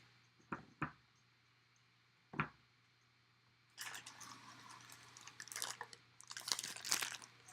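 A few soft knocks, then a plastic bag crinkling and rustling for about three and a half seconds as a baseball bat is handled and drawn out of it.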